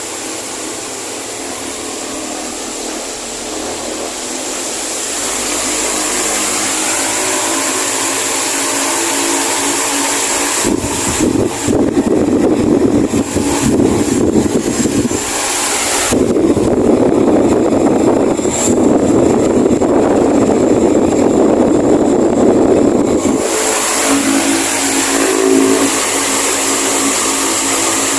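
Delta Premium 170W three-blade wall fan running with a steady rush of air. From about ten seconds in to about twenty-three seconds the sound gets louder and rougher, with air buffeting the microphone, then eases back to the steady rush.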